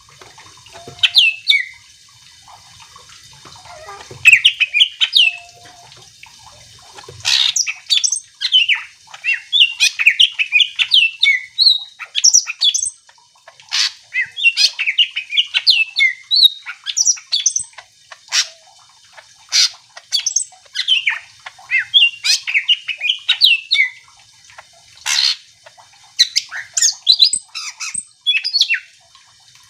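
Cucak ijo (green leafbird) singing a fast, varied song of sharp chirps and sweeping whistles, in phrases broken by short pauses.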